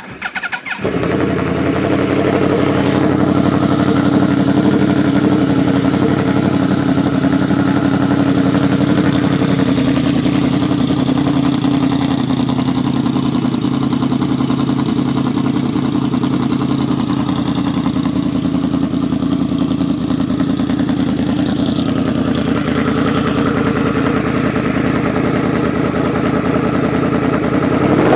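2010 Yamaha R1's crossplane inline-four through a Voodoo aftermarket exhaust, catching within the first second and then idling steadily.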